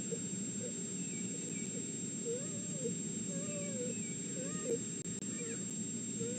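Red wolf whining: a string of short, high whimpers, each rising and falling in pitch, repeated many times over a steady hiss.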